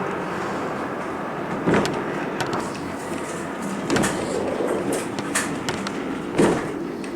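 Steady hiss and hum of a standing heritage railway train, with about five sharp knocks or clunks a second or so apart, like doors or couplings.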